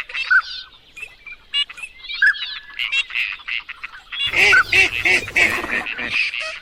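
Many birds calling at once in a mixed chorus: short, repeated calls, sparse through the first few seconds and crowding together densely from about four seconds in.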